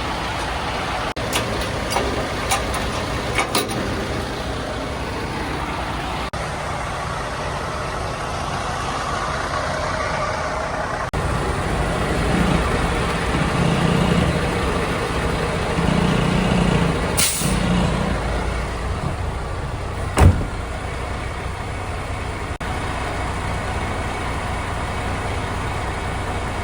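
Semi truck running and moving slowly, with steady engine and road noise, a few light clicks early, a brief air hiss about two-thirds in and a single sharp knock a few seconds later.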